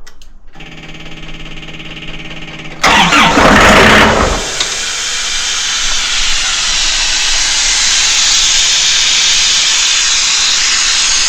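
Diesel engine of a Doosan 7/71 towable compressor being started for the first time after 18 months standing. The starter cranks with a steady whine for about two seconds, the engine catches about three seconds in with a loud burst, then settles into steady running.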